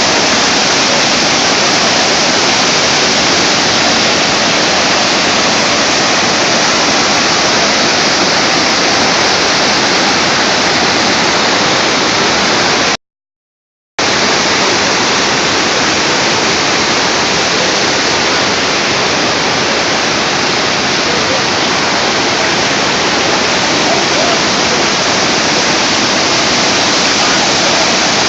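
Waterfall crashing in a loud, steady rush of water. The sound cuts out completely for about a second midway, then resumes unchanged.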